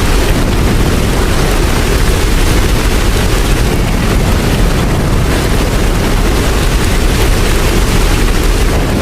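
Steady heavy rain, a dense, unbroken wash of noise weighted toward a deep low rumble, with no separate drops, strikes or chimes standing out.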